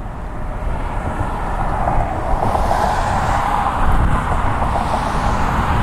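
Jet engines of a Boeing 737-800 airliner running, a steady rumble with a whine that grows louder a couple of seconds in.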